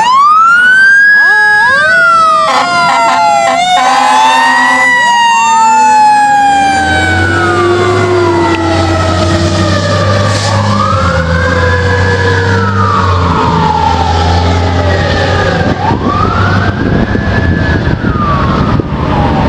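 Fire engine sirens sweeping up sharply at the start, then wailing with slow rising and falling sweeps, several siren tones overlapping, with a short choppy stretch of stepped tones a few seconds in.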